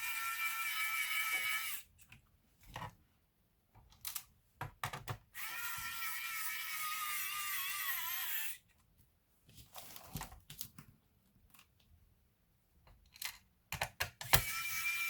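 A small electric motor runs in three short bursts of one to three seconds, the middle one sagging in pitch just before it stops, with small clicks and knocks of handled parts and tools in between.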